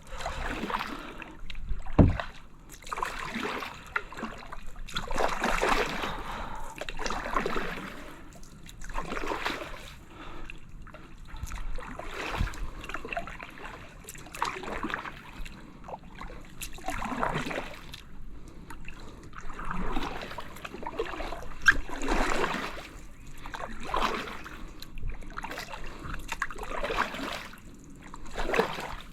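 Kayak paddle strokes splashing and dripping in the water, a stroke every two seconds or so, with one sharp knock about two seconds in.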